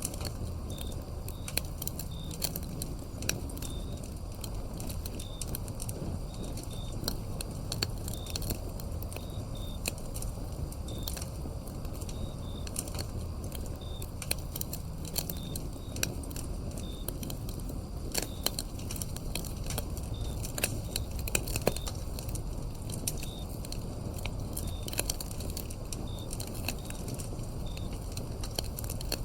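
Wood fire crackling, with frequent sharp pops and snaps over a low steady rumble. Crickets chirp alongside in short, evenly spaced chirps, about one a second.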